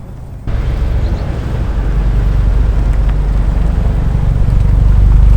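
A car's engine and exhaust rumbling, starting abruptly about half a second in and growing steadily louder as it comes closer.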